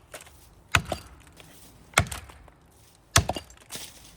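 Axe blows into the trunk of a standing maple tree: three sharp chopping strikes, about a second and a quarter apart, cutting the felling notch.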